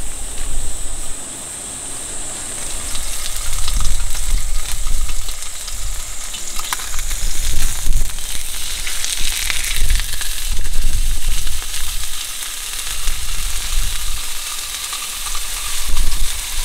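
Freshwater eel fillet sizzling and crackling in oil on a griddle pan over a portable gas burner, a steady dense hiss. A low, gusty rumble of wind on the microphone runs underneath.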